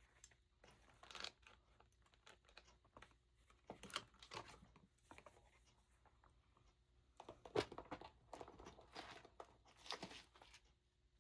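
Soft, scattered rustling and light clicks of paper tags and craft supplies being handled, with a sharper tap about halfway through.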